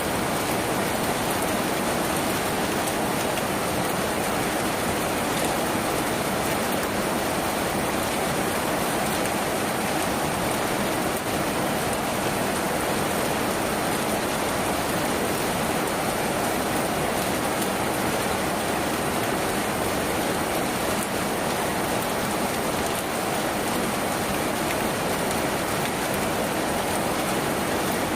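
Steady, heavy rain drumming on a tin roof, an even hiss and patter that holds without a break.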